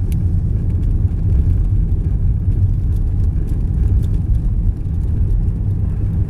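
Steady low rumble of a car driving on a snow-covered road, heard from inside the cabin: engine and road noise with a few faint ticks.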